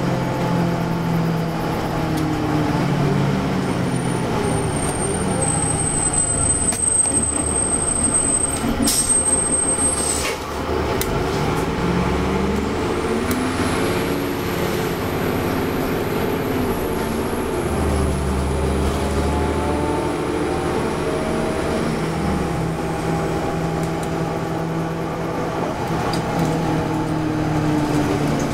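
Orion VII NG diesel transit bus running under way, its engine pitch rising and falling through acceleration and gear changes. Two sharp clicks come at about 9 and 10 seconds, and a thin high whine climbs in at about 13 seconds, holds, and fades out near 23 seconds.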